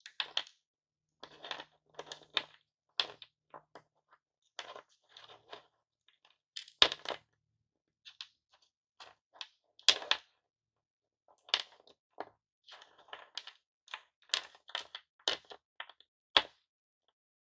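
Hard-candy lollipop pieces clicking and crackling as they are handled and crushed, in quick clusters of small clicks. Three louder sharp knocks stand out, about seven, ten and sixteen seconds in.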